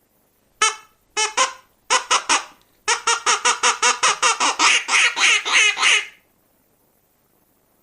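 Duck quacking: a few separate quacks, then a fast run of quacks at about five a second that stops about six seconds in.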